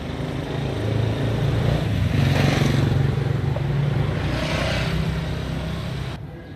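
A motor vehicle's engine running, its hum growing louder through the middle and fading again, then stopping abruptly near the end.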